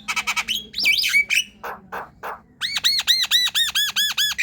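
Javan myna singing: a run of rapid clicks and harsh chatter, then a string of about ten quick, identical arched whistles, around four a second.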